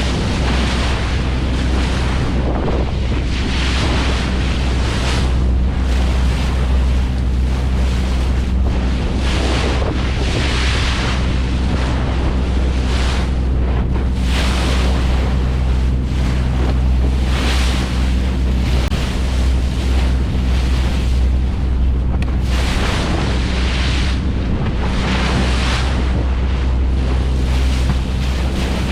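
A fishing boat's engine hums steadily at sea, with wind buffeting the microphone in gusts every second or two.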